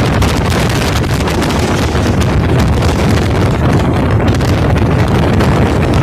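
Heavy wind buffeting the microphone over the steady rumble of a moving passenger train, heard at an open carriage door.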